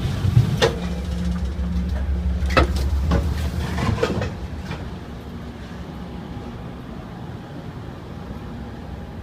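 Passing between two Amtrak Pacific Surfliner cars: a loud low rumble of the train's equipment with a few sharp clunks and knocks, dropping to a quieter steady hum about four seconds in.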